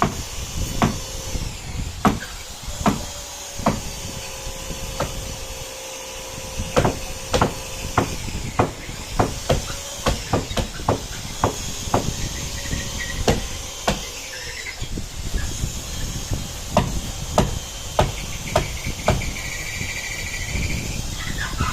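Hammer blows on wood, irregular, about one or two a second, some ringing, from work on a wooden boat's hull planks. A short high chirping comes in near the end.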